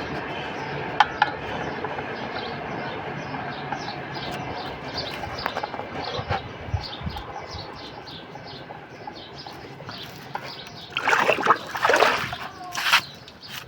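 Small birds chirping over and over, short high chirps two or three a second, with a few louder noisy bursts near the end.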